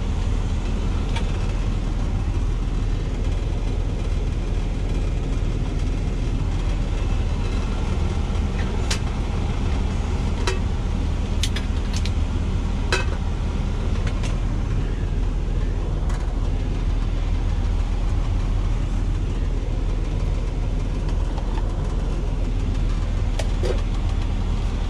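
Semi truck's diesel engine idling steadily, a constant low hum heard from inside the cab, with a few light clicks and knocks from handling utensils and food.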